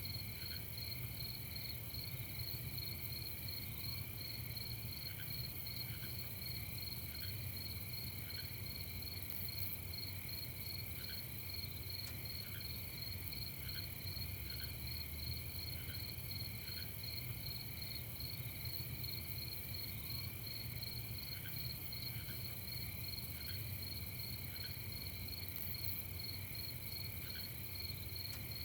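A steady nighttime chorus of crickets, trilling without a break. Sparse, short, lower-pitched chirps come through every second or two. A low hum runs underneath.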